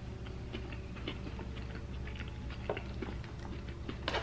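A man chewing a spoonful of cheese-sauced tater tots close to the microphone, with small wet mouth clicks throughout. A metal spoon clicks as it scoops into the tots near the end.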